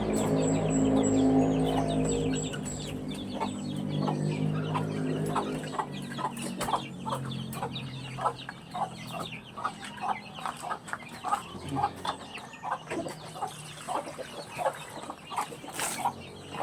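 Backyard chickens clucking in many short, quick calls, several a second. A low steady drone dominates the first few seconds and then fades away.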